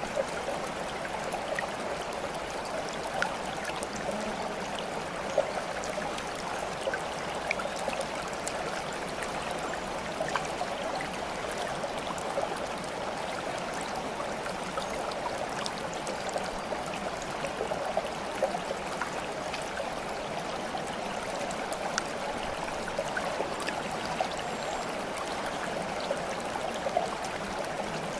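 Running water babbling steadily like a small stream, with scattered small drips and splashes over it.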